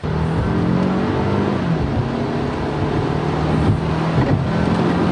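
Car engine heard from inside the cabin, its pitch climbing under acceleration for about the first second and a half and then holding steady. Under it is a steady hiss of rain and wet tyres.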